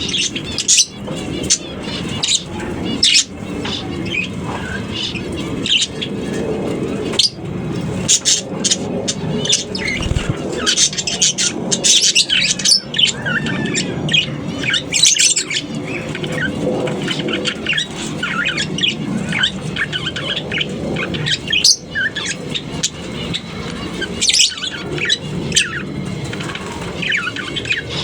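A colony of lovebirds chirping and squawking, with many short, shrill calls overlapping and coming thick and fast throughout, over a steady low background rumble.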